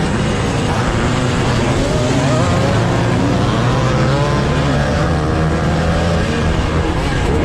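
Vintage two-stroke motocross engine, a 1982 Husqvarna 430 single, running under load with its pitch rising and falling as the throttle opens and closes.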